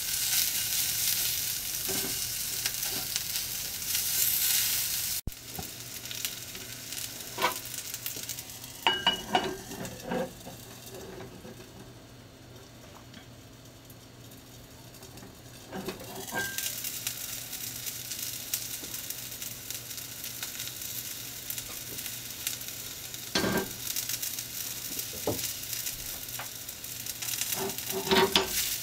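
Potato wedges and broccoli sizzling in oil in a cast-iron skillet, with a few knocks and clinks of the pan and its lid. The sizzle grows quieter while the pan is covered around the middle, then comes back.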